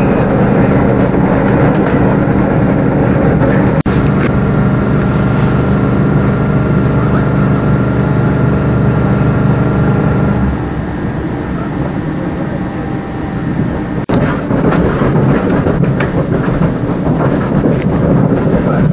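Onboard running noise of a Class 387 electric multiple-unit train at speed: a steady rumble of wheels on rail with a hum of several steady tones. The hum drops away about ten seconds in, and the sound changes abruptly about four and fourteen seconds in.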